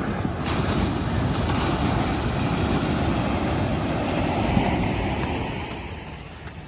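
Ocean surf breaking on the beach: a wave crashes at the start, washes loudly for about five seconds, then fades out near the end.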